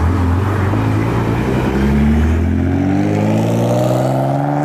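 A car engine running loud and low, then revving up in one long, steadily rising pull from about two seconds in as the car accelerates away.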